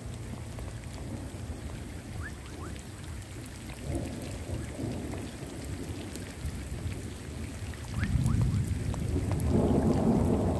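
Steady rain falling on a puddle and foliage, with scattered drop ticks. A low rumble of thunder builds about eight seconds in and grows louder.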